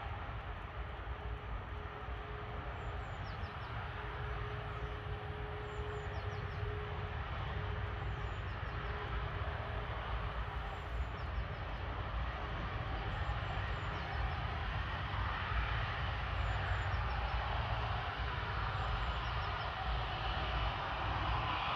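Jet airliner engine noise, a steady rushing rumble that slowly grows louder as the aircraft comes closer.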